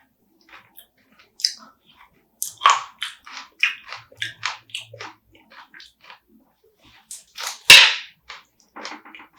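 Close-up eating sounds of spicy marinated raw crab: a run of short crunches and wet clicks as crab shell is bitten and chewed, with one louder sharp crack about three-quarters of the way through.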